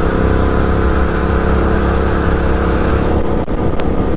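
Sport motorcycle with an SC Project aftermarket exhaust running at steady cruising revs on the highway, with a brief dip in sound about three and a half seconds in.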